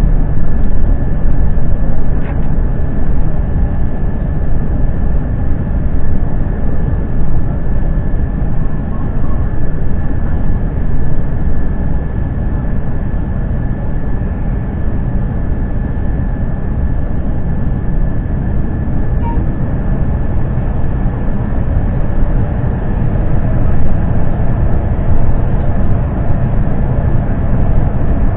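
Steady, loud rumble of cabin noise inside an Airbus A350 airliner, with a thin steady whine above it.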